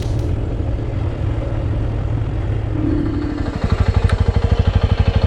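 Motorcycle engine running at low revs. About two-thirds of the way in it settles into an even idle putter of roughly seven beats a second.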